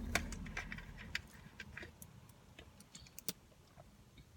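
Scattered small clicks and crackles of eating and handling food, over a low rumble that fades out about a second in.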